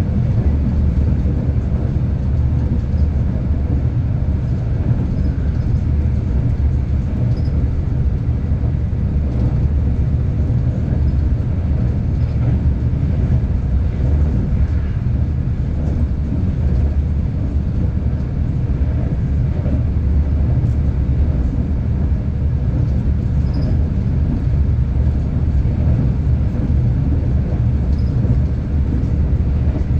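Steady low rumble of a V/Line passenger train running along the track, heard from on board.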